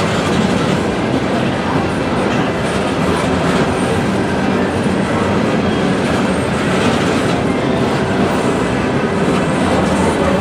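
Empty Norfolk Southern coal hopper cars rolling past at close range: a steady, loud rumble and clatter of steel wheels on the rails.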